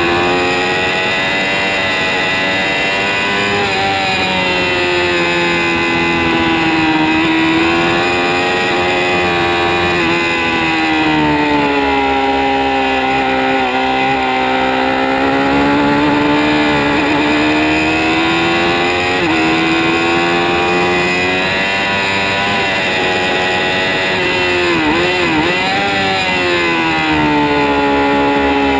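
2006 Kawasaki ZX-6R (636) inline-four engine at high revs on a track lap. Its pitch rises and falls several times through the gears and corners, with a quick flutter of revs near the end.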